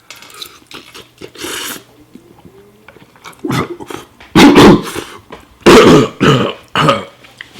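A man coughing and hacking hard, a string of about five loud coughs in the second half, his throat burning from the capsaicin in extremely spicy instant ramen.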